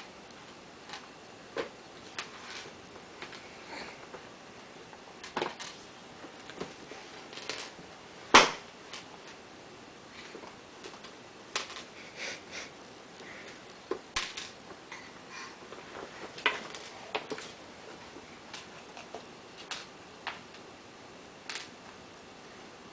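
A baby's quiet sniffs and small hand and mouth noises while fumbling with Cheerios, with scattered soft taps and one louder knock about eight seconds in.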